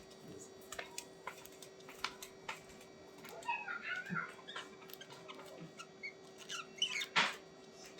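Short animal calls among scattered light clicks: a soft chirping run about three and a half seconds in and a sharper single call near the end, over a steady low hum.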